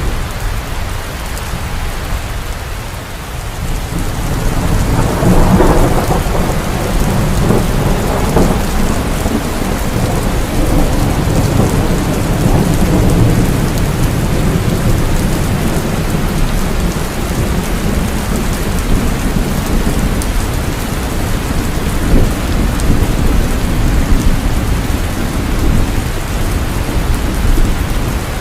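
Heavy, continuous rainfall with rolling thunder. A deep rumble of thunder swells in about five seconds in and rolls on under the rain.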